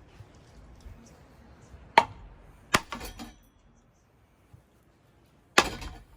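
Three hard blows strike a Hampton Bay Chatham ceiling fan as it is smashed, about two seconds in, again a moment later and near the end, each followed by a brief clattering rattle.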